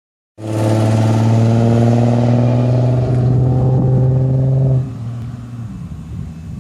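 Twin-turbocharged Ford Thunderbird engine running loud under throttle at a fairly steady pitch. About five seconds in it suddenly gets much quieter and goes on at a lower, uneven level.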